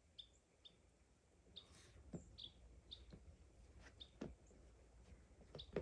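Faint small-bird chirps, short high notes repeated every half second or so, with a few soft clicks mixed in.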